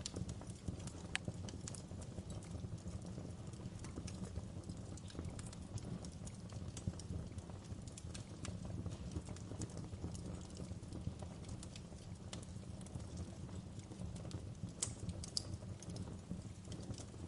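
Wood fire crackling steadily in a fireplace: a constant low rumble of flame with irregular sharp pops and snaps of burning logs, a few louder pops about fifteen seconds in.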